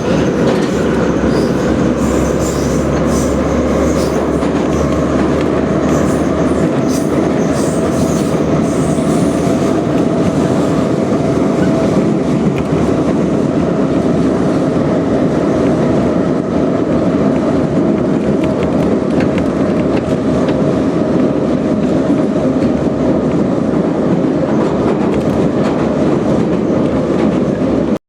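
Em-501/Ema-502 metro train running on the line: a steady, loud rumble of wheels and running gear, with short clicks of the wheels over rail joints during roughly the first ten seconds.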